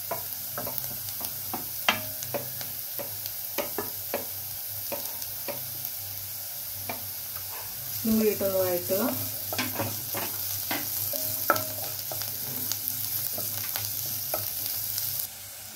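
Chopped onion, ginger, garlic and green chilli sizzling in hot sunflower oil in a nonstick kadai while a spatula stirs them, with frequent light taps and scrapes of the spatula against the pan. The sizzle drops off shortly before the end.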